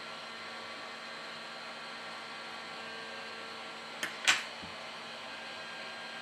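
Steady background hiss with a faint hum, and a sharp click about four seconds in, just after a softer one.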